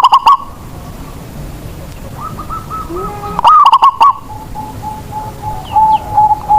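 Zebra dove cooing: a loud, wavering coo phrase at the start and again about three and a half seconds in, each followed by a run of quick, even short notes. Fainter coos from another dove come in between, and faint high chirps of small birds near the end.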